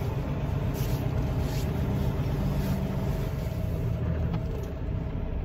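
Semi truck's diesel engine running steadily as a low, even hum, with a rushing road and wind noise over it.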